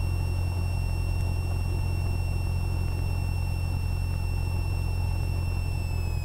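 Cessna 172R's four-cylinder Lycoming engine running at low power on the ground, a steady low drone with a thin high whine above it that drops slightly in pitch near the end.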